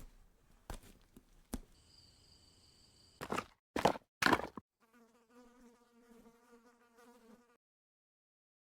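A flying insect buzzing close by, a fast fluttering drone that cuts off suddenly near the end, with a few sharp clicks and short loud rustling bursts before it.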